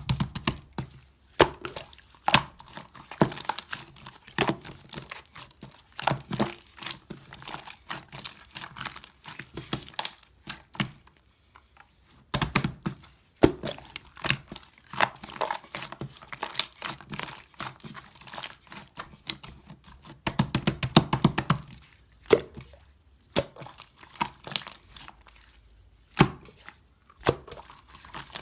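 Slime being squished and poked by hand, giving dense crackling and clicking as air pockets pop. There are short lulls about eleven and twenty-two seconds in.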